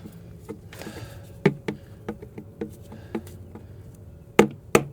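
Scattered light taps and clicks, then near the end a run of sharp hammer-like knocks, about three a second.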